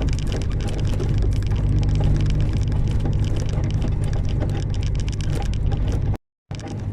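Truck cab noise while driving: a steady low engine drone with road noise and many small rattles and clicks from the cab. The sound drops out completely for a moment near the end.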